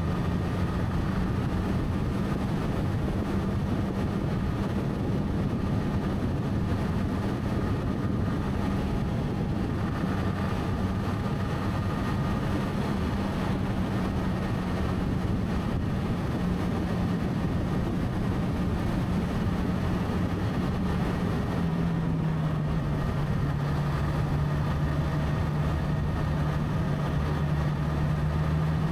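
Motorcycle engine running at a steady cruise with wind and road noise. Its note drops a little about three-quarters of the way through, as the engine speed eases.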